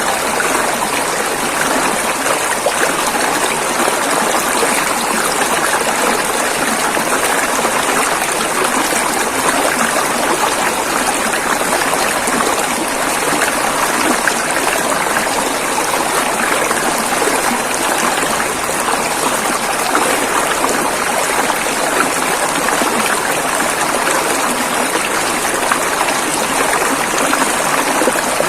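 River water rushing and flowing over rocks, a steady even rush with fine splashing and gurgling detail.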